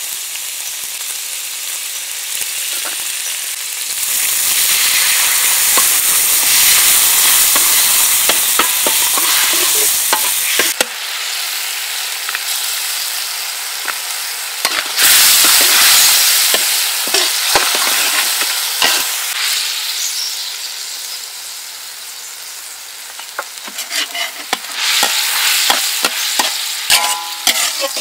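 Red chili paste sizzling in hot oil in a metal wok, the sizzle swelling louder about 4 seconds in and again around 15 seconds before easing off. Near the end a metal spatula stirs it, clicking and clanking against the wok.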